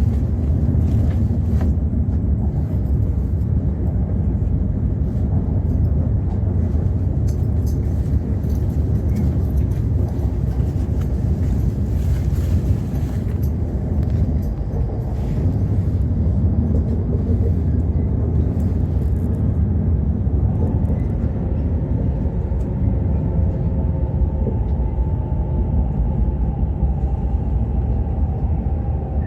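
Running noise of an E5 series Shinkansen train: a steady low rumble. A faint steady whine joins about twenty seconds in.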